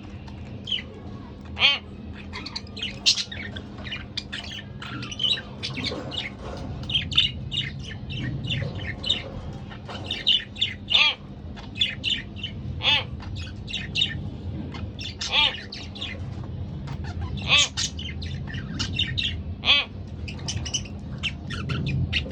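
A pair of budgerigars chattering, with a quick, continuous run of short chirps and squawks. A faint steady hum sits underneath.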